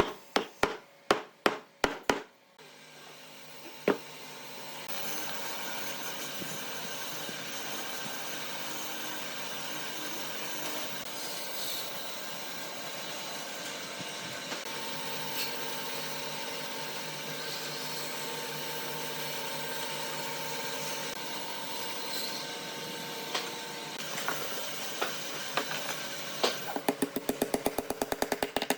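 Hammer blows on wood, about three a second, then a woodworking power tool running steadily for about twenty seconds, with a quick run of knocks near the end.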